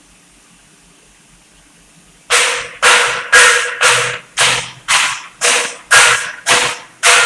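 Hammer striking metal, about ten quick blows at roughly two a second starting about two seconds in, each one ringing briefly.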